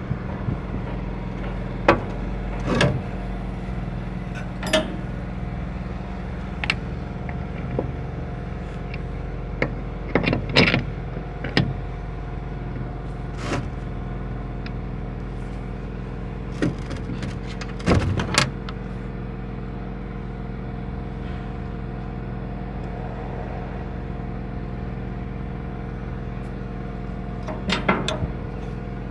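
An engine running steadily at idle, with scattered sharp metal clanks and knocks from tools being worked on machinery.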